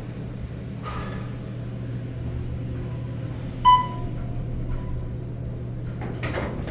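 Otis elevator car running between floors with a steady low hum. A single short electronic chime sounds about halfway through, and there is a brief knock near the end.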